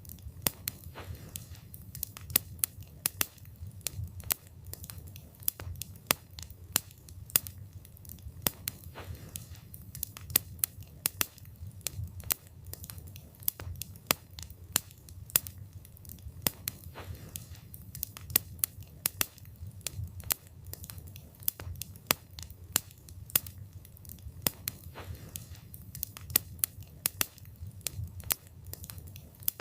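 Wood fire burning, with frequent sharp, irregular crackles and pops of burning wood over a low steady rumble of flame.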